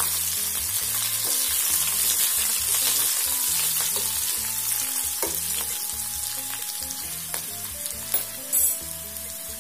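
Green chillies and curry leaves sizzling in hot oil in a kadai while a spatula stirs them, for a tempering (vaghar). The sizzle slowly dies down, and there are a few sharp knocks near the end.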